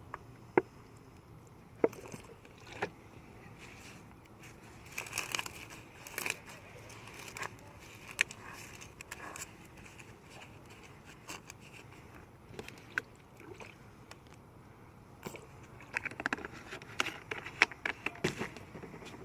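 Handling noises: scattered sharp clicks, taps and scrapes of an aluminium can and a lighter-fluid container as lighter fluid is put onto paper towels packed in the can's bottom, busier about five seconds in and again near the end.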